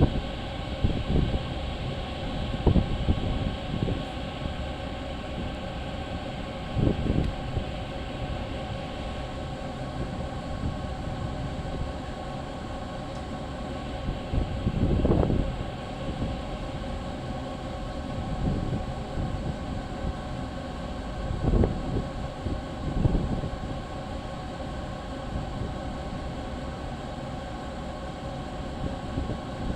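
Train running along the track, a steady mechanical rumble with a constant hum, swelling briefly a few times, most strongly about halfway through.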